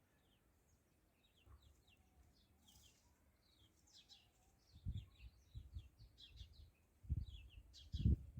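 Small birds chirping, many short high chirps throughout. From about five seconds in, low thumps and rumbling come in, growing louder near the end.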